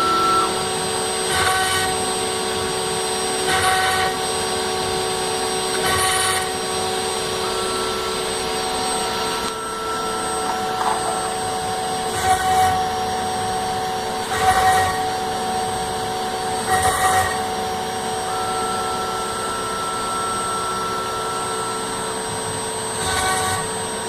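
CNC router spindle running and cutting acrylic sheet: a steady whine made of several held tones, with a brief surge of cutting noise every two seconds or so, in runs with pauses between.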